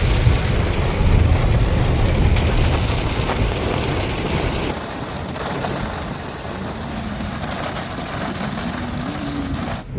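Heavy rain on a moving car, over a low rumble of engine and road. About halfway through, the sound changes abruptly and becomes softer.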